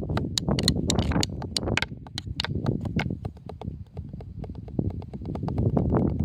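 A drum struck by hand in quick, uneven strokes, several a second, softer for a while in the middle and then louder again, over a steady low rumble.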